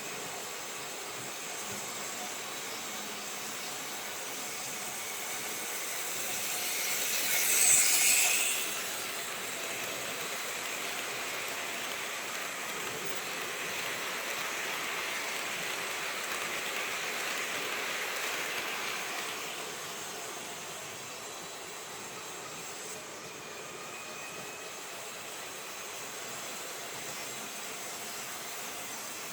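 Märklin HO-scale model train running, over a steady hiss. A short louder burst comes about eight seconds in, and a longer swell rises and fades midway, as if the train comes closer and moves away.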